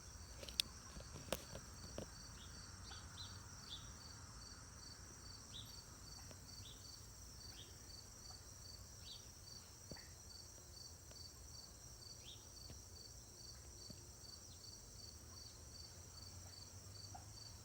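Insect chorus: a steady high trilling with a regular pulsed chirp about twice a second, over a low steady hum. Two sharp clicks come in the first two seconds.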